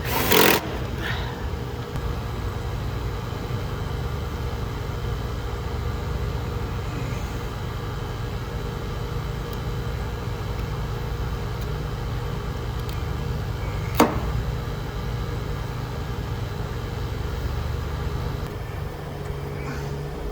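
Vacuum pump running steadily while evacuating an air-conditioning system, a constant hum with a faint fixed tone. A short knock right at the start and one sharp click about 14 seconds in.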